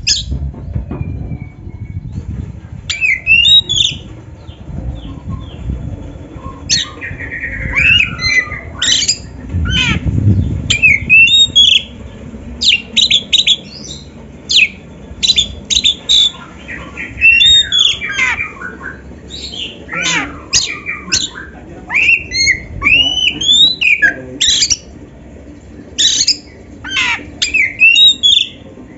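Oriental magpie-robin (kacer) singing: a rapid run of sharp whistles, upward glides and harsh chattering notes. There is a low rumble under it in the first half.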